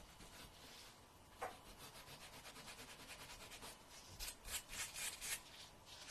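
A fingernail being filed with a hand nail file: quick, soft rasping strokes, several a second, after a small click about one and a half seconds in. A louder group of about five strokes comes near the end.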